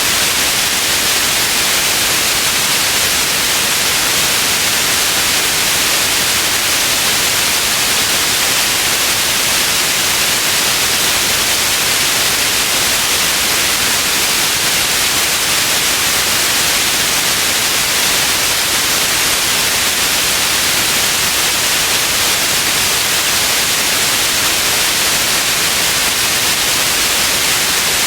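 Steady, loud white noise: an even hiss with most of its energy in the upper frequencies, unchanging throughout.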